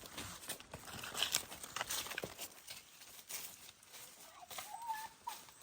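A rapid, irregular series of knocks and rustles, with a short pitched call near the end.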